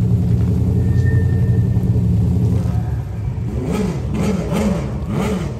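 Drift car's engine idling with a steady low rumble, then blipped in a few quick revs, each rising and falling, over the last couple of seconds.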